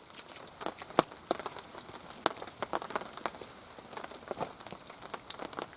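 Rain falling steadily, with many irregular sharp drop impacts, one louder hit about a second in.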